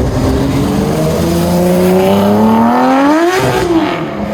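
Car engine revving up in first gear as the car pulls away, its pitch rising steadily for about three seconds, then falling back sharply near the end as the throttle is lifted.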